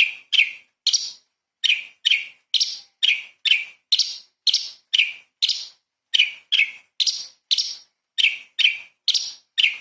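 Cucak cungkok leafbird calling in a rapid series of short, sharp, downward-sliding notes, about two and a half a second, with a couple of brief pauses.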